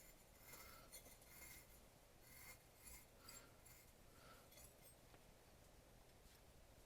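Near silence with a few faint, short scratches and clinks during the first five seconds, like small objects being handled or scraped.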